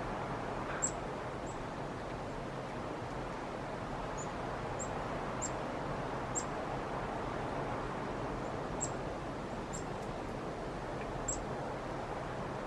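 Black-capped chickadees giving short, thin, high-pitched calls, about a dozen scattered through, over a steady rushing background noise.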